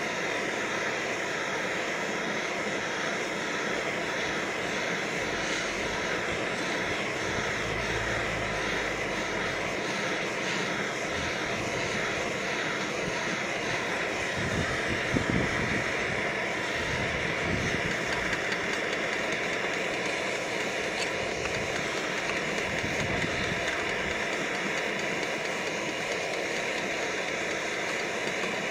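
Backpacking canister stove burner running with a steady roar under a covered canteen cup. Popcorn oil sizzles inside the cup as it heats, before the kernels start to pop. A couple of light knocks come about halfway through.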